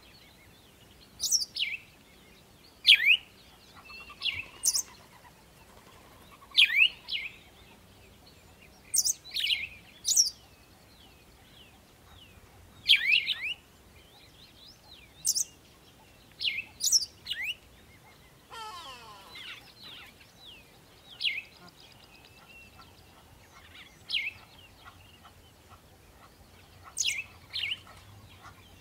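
Wild birds chirping repeatedly: short, sharp calls that sweep downward, often two close together, every few seconds. About two-thirds of the way through there is a lower, falling call.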